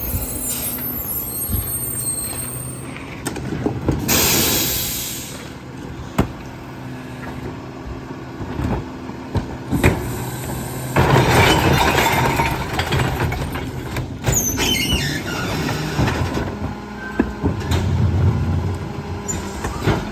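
Garbage truck running with a steady engine hum. A hiss of air comes about four seconds in, followed by sharp knocks, a clattering stretch in the middle and a brief falling squeal.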